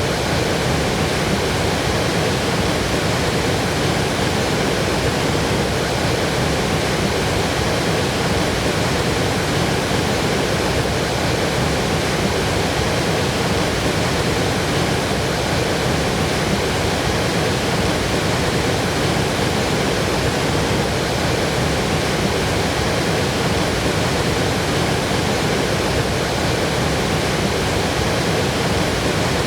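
Waterfall with a steady flow: a constant, unbroken rush of falling water.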